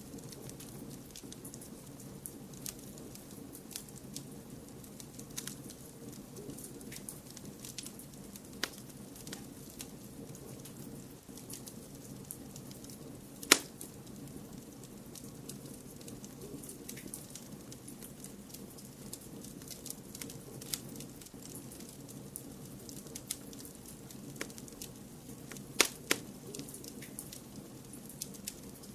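Wood fire crackling: scattered sharp pops and ticks over a steady low rushing noise, with one loud pop about halfway through and a quick pair of pops near the end.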